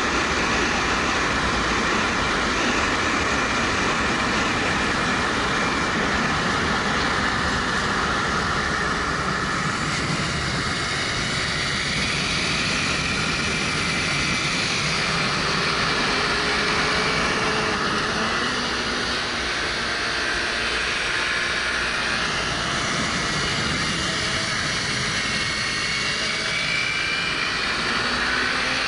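Wind rushing over a helmet-mounted action camera on a moving 2013 Suzuki GW250, with the bike's parallel-twin engine running underneath, its pitch drifting up and down with the throttle.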